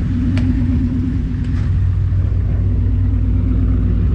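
A car engine running steadily close by, a low even hum, with a single sharp click about half a second in.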